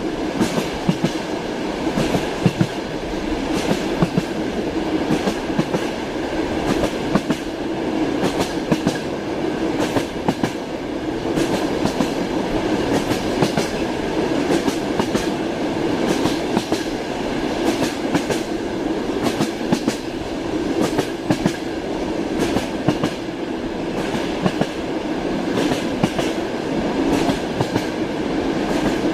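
Passenger train wheels clacking over rail joints, heard from inside a compartment carriage, over the steady rumble of the moving car. The clicks come several times a second, unevenly.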